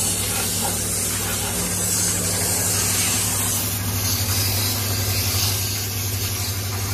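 Spray gun hissing steadily as diesel is sprayed over a motorcycle's body and underside in a diesel wash, with a steady low motor hum beneath it.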